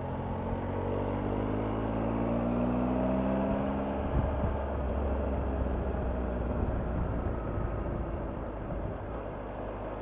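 Triumph Tiger 1200's three-cylinder engine pulling under way, its pitch rising over the first few seconds. After a short knock about four seconds in it runs steadily at a lower pitch, with road and wind noise behind it.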